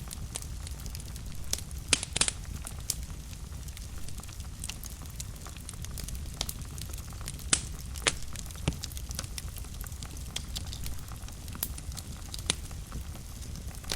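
Wood fire burning in a fireplace: a steady low rumble with irregular sharp crackles and pops, the loudest pops about two seconds in and again near the middle.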